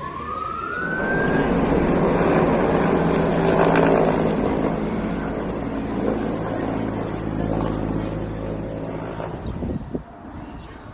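Propeller aircraft passing overhead, its engine drone swelling to a peak about four seconds in and then fading away. A siren's rising wail ends in the first second or so.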